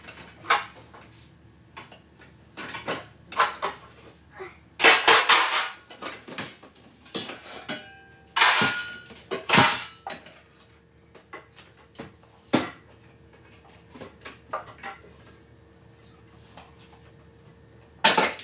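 Dishes, containers and utensils clattering and knocking as they are handled in a kitchen: a series of separate sharp knocks and clinks, several louder ones in the middle and one near the end.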